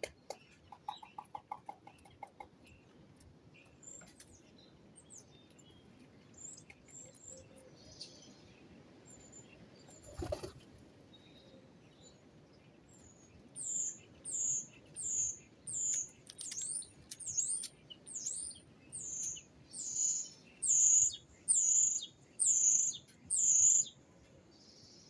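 Small bird calling: faint scattered chirps at first, then a long series of high, down-slurred calls about one and a half a second, growing louder toward the end. A single dull thump comes near the middle.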